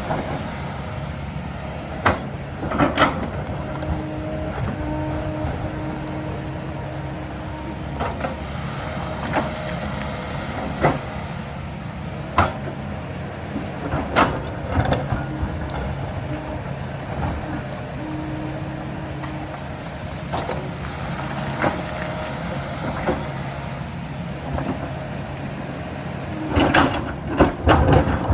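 Diesel engine of an earthmoving machine running steadily, broken by scattered sharp knocks and clanks, with a busy cluster of them near the end.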